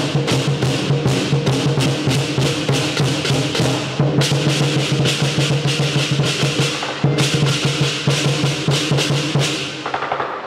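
Lion dance percussion: a drum beaten in fast, dense strokes under clashing cymbals, with a steady low ringing beneath. The cymbal wash starts afresh about four and seven seconds in, and the playing eases off near the end.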